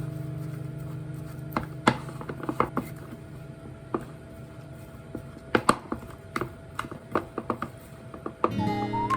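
A knife knocking on a cutting board in about a dozen irregular strokes, under a fading guitar chord. Guitar music with a whistled tune comes back in near the end.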